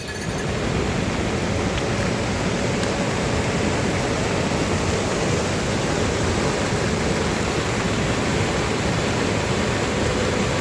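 A loud, steady rush of water. It starts abruptly and stays even throughout, with no separate drops, splashes or other events standing out.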